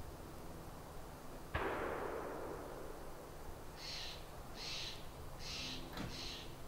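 A sharp bang about a second and a half in, dying away in a long echo. Then a bird gives a run of five harsh, raspy calls, evenly spaced.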